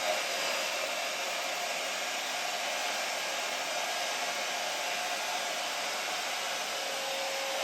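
A small handheld blow dryer running steadily, a continuous airy rush with a faint whine, blowing wet acrylic paint outward from the centre of a canvas.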